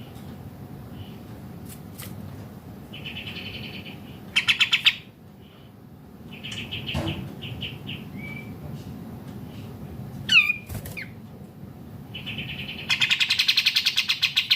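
Several kapas tembak bulbuls chirping and chattering together, in bursts of fast rattling notes; the loudest rattles come about four and a half seconds in and again from about thirteen seconds on, with a swooping call around ten seconds.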